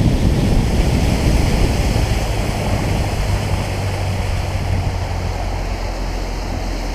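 Bass boat under way on a new Mercury outboard during its break-in run: a steady low engine hum under the rush of wind and water past the hull, the rush easing somewhat after the first couple of seconds.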